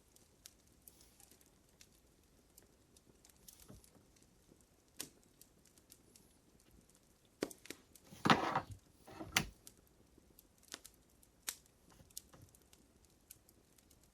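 Wood fire crackling, with scattered sharp pops and a louder, denser burst of crackling or rustling about eight seconds in.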